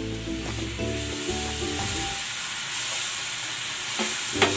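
Garlic, butter and freshly added lemon juice sizzling steadily in a nonstick frying pan, with a wooden spatula scraping across the pan a few times near the end.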